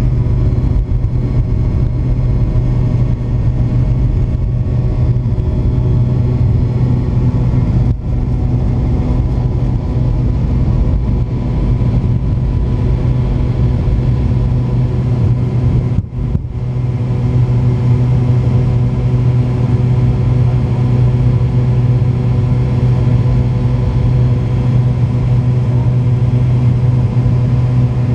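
McDonnell Douglas MD-88 airliner's rear-mounted Pratt & Whitney JT8D turbofans running: a loud, steady drone with a strong low hum and several steady tones that hold their pitch, dipping briefly twice.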